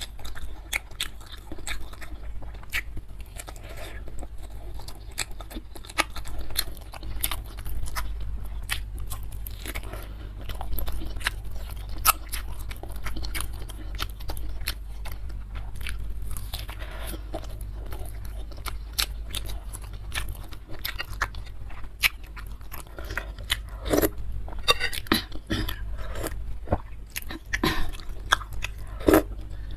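Close-miked biting and chewing of a beef tendon meatball (bakso urat), with wet mouth smacks and many small clicks. A few louder clicks come near the end.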